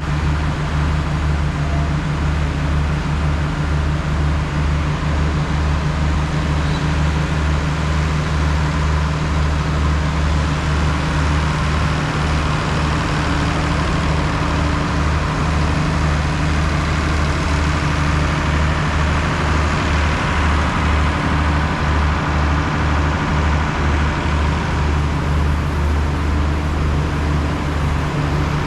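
A large engine running steadily at idle, a low hum that throbs evenly, with a haze of noise above it.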